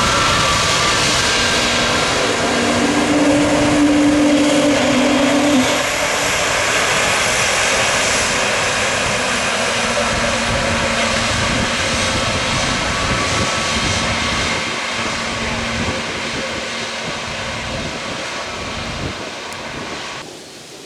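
Airplane engines passing close by, loudest in the first few seconds and then fading slowly as the aircraft moves away. The sound cuts off abruptly near the end.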